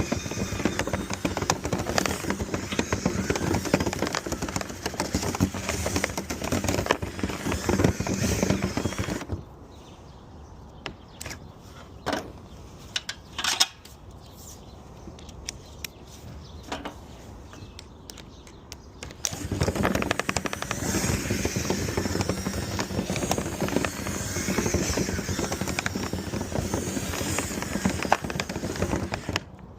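A dryer vent cleaning rod and brush spinning inside a clogged dryer vent pipe, clattering against the pipe walls in a fast, dense rattle. It stops about nine seconds in, leaving only a few knocks for about ten seconds, then starts up again.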